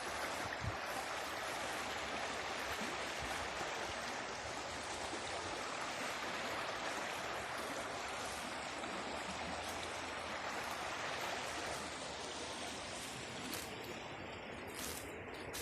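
River rapids: water rushing over rocks in a steady, even roar, easing slightly toward the end, with a few brief splashes near the end.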